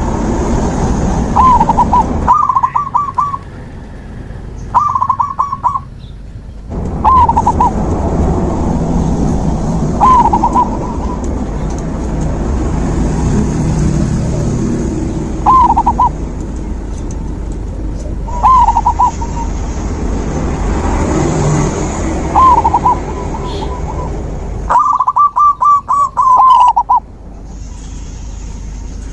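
Zebra doves (perkutut) cooing: short rolling calls repeated every few seconds, with a longer run of notes near the end. Underneath is a steady hiss and low rumble that cuts out suddenly a few times.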